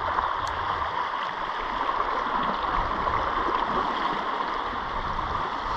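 Sea water washing and churning against the shoreline rocks: a steady rushing hiss with a low rumble beneath.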